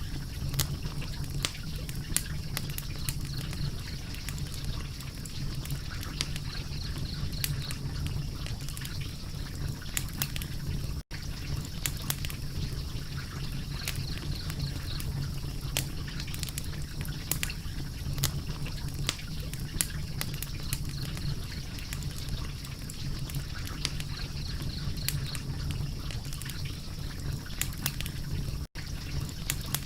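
Wood fire crackling: irregular sharp pops and snaps over a steady low rumble, with two momentary dropouts.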